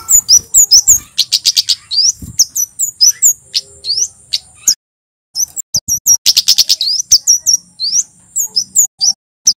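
Male kemade, a Javan flowerpecker, singing a rapid run of sharp, high chirps. Two fast chattering trills come about a second in and again past the middle, with a short pause just before the second.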